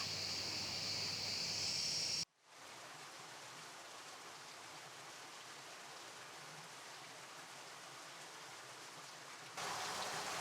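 Insects shrilling steadily in a high, even band, cut off suddenly about two seconds in. A faint, steady outdoor hiss without any tone follows, and near the end a louder rushing noise sets in.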